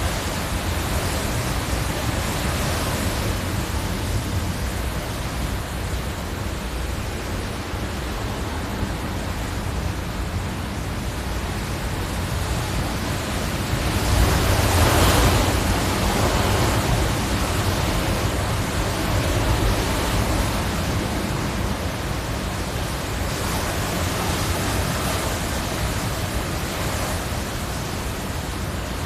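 Hurricane wind blowing as a continuous rushing noise that rises and falls in gusts, the strongest about halfway through.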